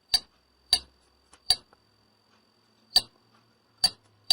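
Keypad buttons on a repaired Stulz Comptrol 6000 HMI being pressed one at a time to step through the menu: about six sharp clicks at uneven intervals. A faint steady high-pitched tone runs underneath.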